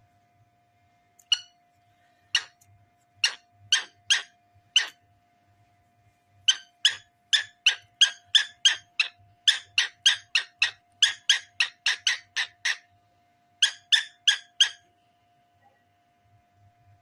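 Cockatiel giving short, sharp, repeated chirps. A few spaced calls come first, then a quick run of about three a second for some six seconds, then a short burst of four near the end.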